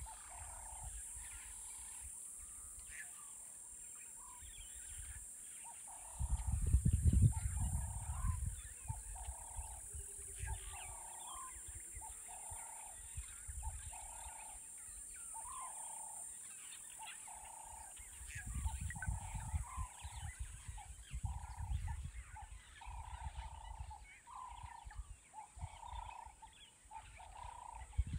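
A bird repeating a short call about once a second over a steady high insect buzz, with irregular bursts of low rumble about six seconds in and again in the last third.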